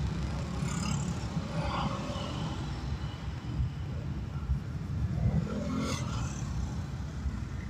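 Road traffic heard from a moving car: a steady low rumble of engine and tyres, with other vehicles passing about a second in and again near six seconds.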